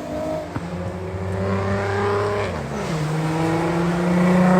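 Car engine held at high revs, its pitch dropping and then settling, and getting louder near the end.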